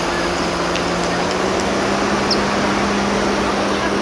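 Steady, even rushing noise with a low steady hum underneath and a few faint high chirps.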